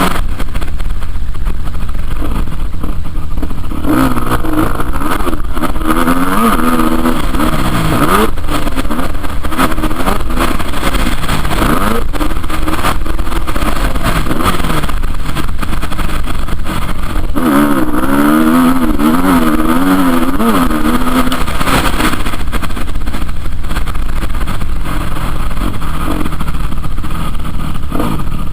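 Motocross bike engines revving up and down over and over, the pitch climbing and dropping in quick runs as the bikes accelerate and shift.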